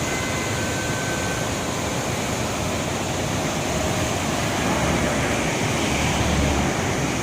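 Mountain river rushing over rocks: a steady, even noise of running water.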